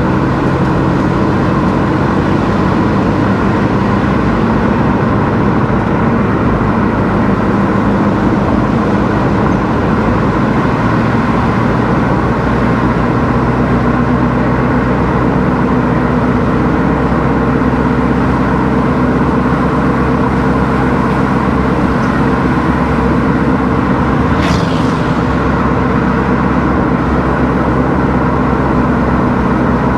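A car being driven: steady engine hum and tyre and road noise at a constant pace. There is one brief sharp sound about 24 seconds in.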